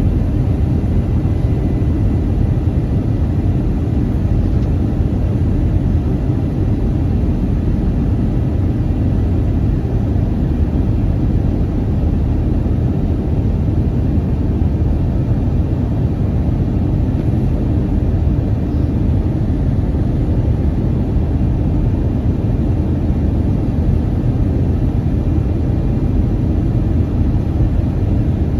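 Steady cabin rumble inside an Airbus A321 airliner, from its engines and the airflow, heard from a forward window seat and unchanging throughout.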